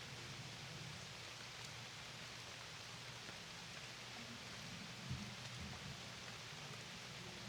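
Steady rain falling, an even patter with no pauses, and a soft low thump about five seconds in.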